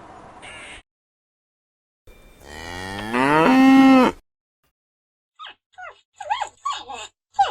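A cow mooing once: a single long call, about two seconds, that rises in pitch and then holds steady before cutting off. A few seconds later a different animal starts a quick run of short calls, each falling in pitch.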